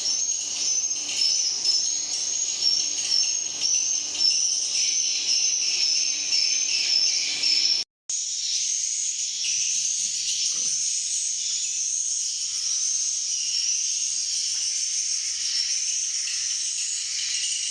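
Swiftlets calling in a dense chorus of many high, rapidly repeated chirps. The sound cuts out for a moment about eight seconds in, then carries on. A faint low hum lies under the first half.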